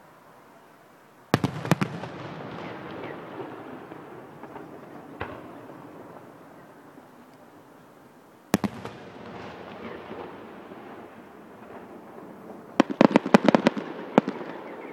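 Aerial firework shells bursting. There is a sharp bang about a second in, a fainter one midway and another loud bang about eight seconds in, each trailing off in a long rolling echo. Near the end comes a rapid string of bangs.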